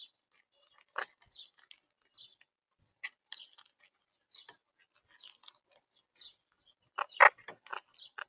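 Monk parakeets (Quaker parrots) cracking sunflower seeds in their beaks: irregular small cracks and clicks of husks, with a louder cluster of cracks about seven seconds in.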